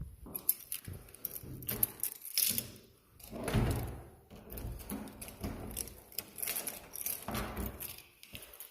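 Irregular knocks and clicks, with a few heavier low thuds about two and a half, three and a half and seven seconds in.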